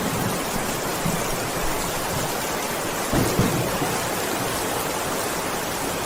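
Heavy rain falling steadily, with no thunder. A few brief, louder low thumps stand out, the strongest about three seconds in.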